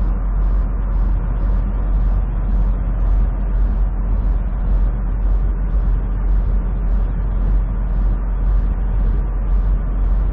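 Steady low rumble of a semi truck's engine and road noise heard from inside the cab while driving at highway speed, with a faint high swish repeating evenly about two or three times a second.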